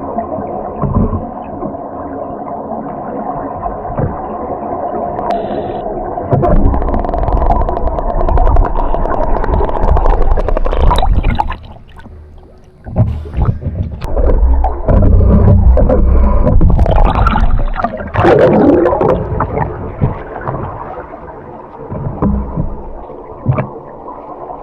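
Scuba diving sounds underwater: a regulator with a steady hum, and two long, loud rumbling stretches of exhaled air bubbles, one about six seconds in and one after a short pause, when divers blow bubble rings.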